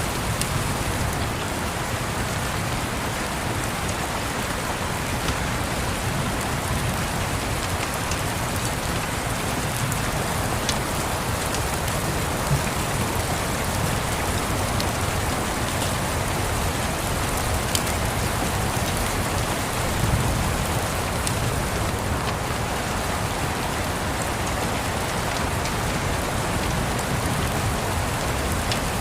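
Steady rain mixed with a crackling fireplace: an even hiss of rain with scattered sharp pops and a low rumble underneath.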